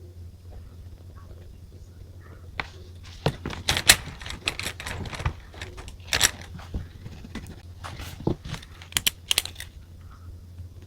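Stationery being handled at a desk while journaling: a run of sharp clicks, taps and paper or plastic crinkles starts about two and a half seconds in and dies away near the end, over a low steady hum.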